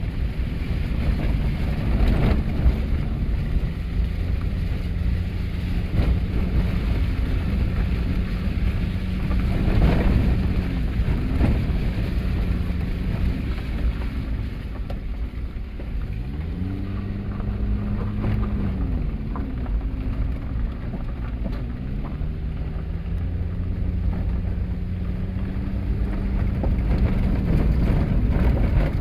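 A car driving along an unpaved forest road: a steady low road rumble with the engine note rising and falling a few times as it speeds up and slows, and a couple of knocks from bumps.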